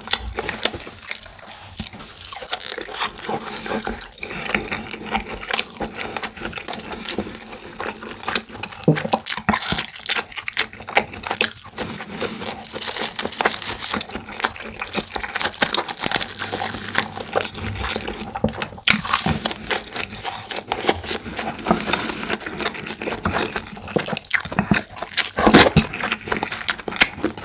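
Close-miked chewing and mouth sounds of a person eating, a continuous run of small clicks and smacks.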